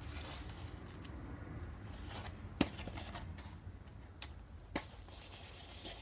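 A few sharp light taps and clicks as a paintbrush and palette are handled during painting, the loudest about two and a half seconds in and another near five seconds, over a faint low hum.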